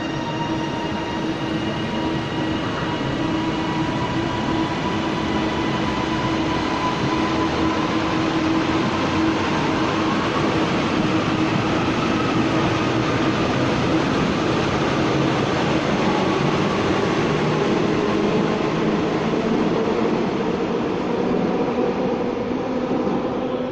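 TransPennine Express passenger train pulling out of the station, with a dense running noise and several steady whining tones. Partway through, a tone starts rising in pitch as the train gathers speed.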